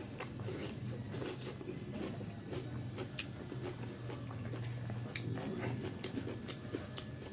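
A person chewing a mouthful of food close to the microphone: repeated short wet mouth clicks and smacks, with a low steady hum underneath.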